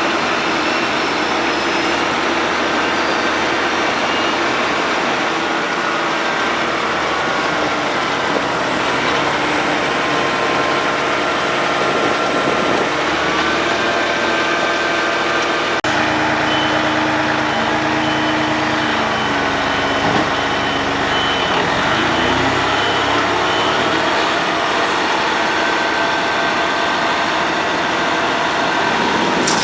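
Road planer at work: its engine and milling gear running in a loud, steady drone, with the engine pitch shifting up and down in places. The sound changes abruptly about halfway through, and a repeated high beep sounds through the middle.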